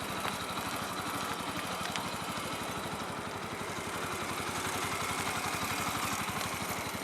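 Motorcycle engine running at low revs with a steady, fast beat. It swells a little about five seconds in, then eases off.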